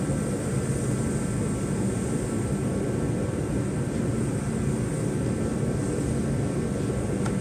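Arc welding a steel sway bar bracket back onto a car's frame: a steady, unbroken crackle and hiss from the welding arc.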